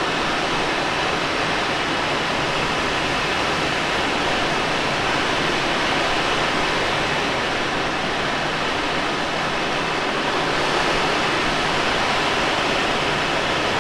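Steady rush of air over the cockpit of a Let L-13 Blaník glider in engineless gliding flight: an even hiss that neither rises nor falls.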